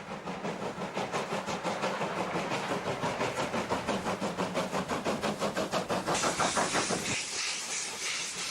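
Steam locomotive working, its exhaust chuffing in a quick, even beat. A loud hiss of steam joins about six seconds in.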